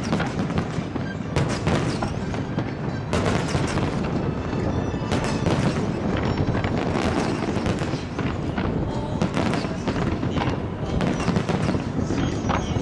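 Aerial fireworks bursting in a display: a continuous din of crackling and rumbling, broken by several sharp bangs.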